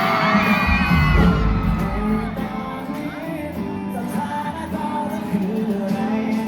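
Live pop-rock band music amplified through a concert PA, with the crowd screaming and whooping over it in the first second or two, then the band playing on steadily.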